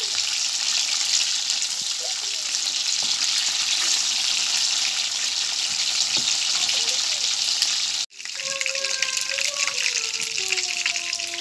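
Breaded chicken pieces deep-frying in hot oil in a metal wok, a steady crackling sizzle while a spatula turns them. The sound cuts out for an instant about eight seconds in, then the sizzle carries on a little quieter.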